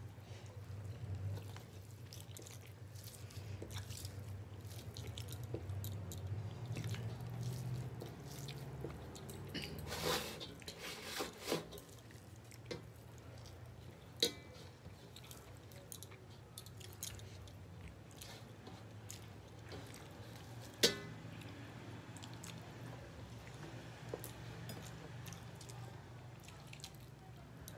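Close-miked eating: chewing and wet mouth sounds as rice and curry are eaten by hand, with scattered small clicks and a few sharper ones, the loudest about two-thirds of the way through, over a steady low hum.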